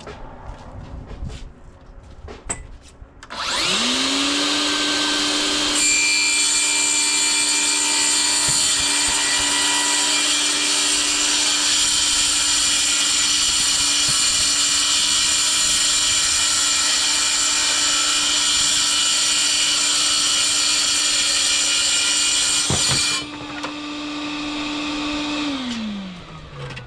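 DeWalt FlexVolt track saw and its Bluetooth-linked FlexVolt dust extractor starting together, then the saw blade cutting through a wooden panel for about 17 seconds. When the trigger is released, the extractor runs on by itself for a couple of seconds to clear the dust, then winds down with a falling tone.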